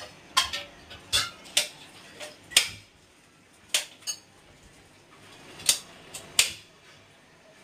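Gas stove's metal parts clinking and clicking: about a dozen sharp, irregular metallic clicks, some ringing briefly, with a quieter stretch in the middle.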